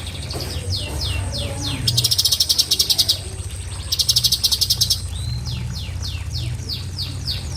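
Cucak cungkok singing: a run of quick falling whistled notes, several a second, broken twice, about two and four seconds in, by loud, very fast rattling trills, the 'tembakan' or 'shot' phrase prized in masteran recordings. A steady low hum runs underneath.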